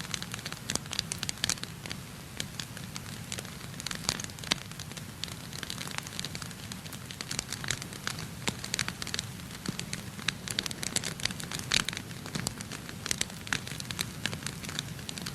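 Wood fire crackling in a fireplace: irregular sharp pops and snaps, several to a second, over a steady low hum.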